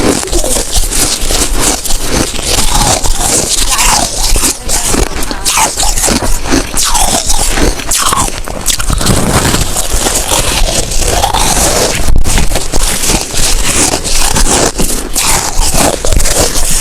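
Snow ice being bitten and chewed close to the microphone: a continuous run of loud, crackling crunches.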